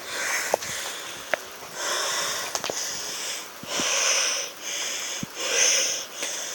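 A person panting hard, a rapid run of hoarse, wheezy breaths in and out after a sprint; he puts the panting down to his asthma in the cold.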